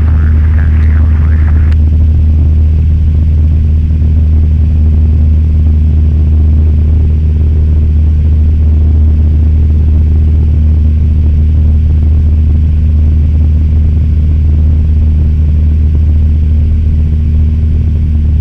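Cessna 172M's four-cylinder Lycoming engine and propeller droning steadily in flight.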